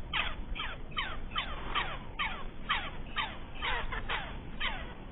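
Lovebirds calling in a rapid series of short, sharp chirps, about two a second, each sliding quickly down in pitch.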